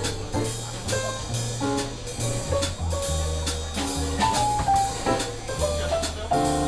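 Jazz band playing: a walking bass line under chords and melody, with drum kit keeping time.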